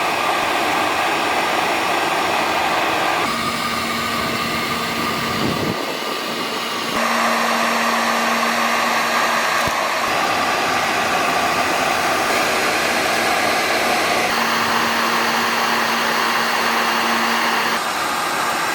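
Shaper Origin handheld CNC router's spindle running steadily while it cuts an aluminium sheet. A low hum comes and goes, and the tone and level shift abruptly a few times.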